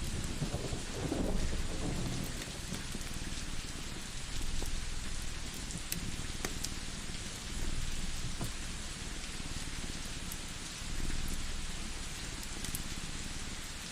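Ambience of steady rain with low rumbles of distant thunder swelling and fading, and scattered sharp crackles of a wood fire.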